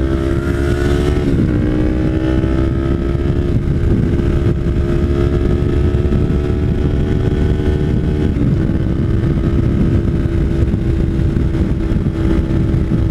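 Kawasaki Ninja 300 parallel-twin with an aftermarket MGP Growler slip-on exhaust running under way at steady throttle. The engine note climbs slowly and dips in pitch twice, about a second and a half in and again about eight and a half seconds in. Heavy wind rush on the helmet microphone.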